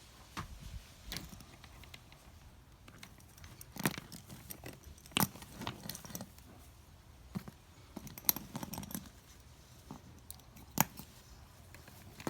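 Scattered light clicks, rattles and rustles of handling, with a few sharper knocks about 4, 5, 8 and 11 seconds in.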